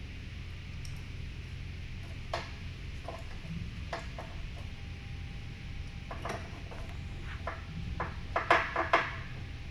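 Scattered light clicks and knocks from parts and hand tools being handled, with a quick run of louder knocks about eight to nine seconds in, over a steady low hum.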